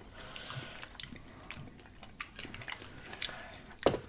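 Quiet wet mouth sounds of someone chewing macaroni and cheese: small smacks and clicks. Near the end there is a sharper knock as the paper cup is handled on the tray.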